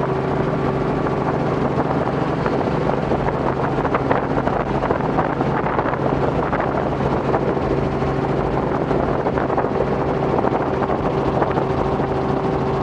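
Robinson R44 helicopter's six-cylinder piston engine and rotors running steadily under climb power just after takeoff, a constant hum with a steady tone and a dense wash of rotor and air noise.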